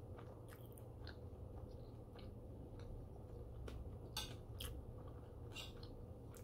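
A man chewing a mouthful of food with his mouth closed, close to the microphone: scattered soft, wet mouth clicks, a few louder ones a little past the middle.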